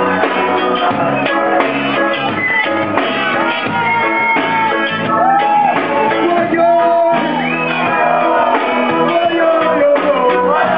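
Reggae band playing live, with a voice singing and shouting over the music.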